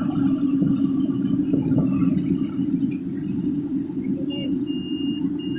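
Harvester engine running steadily with a low, continuous rumble. From about four seconds in, a thin high tone sounds in several short pulses over it.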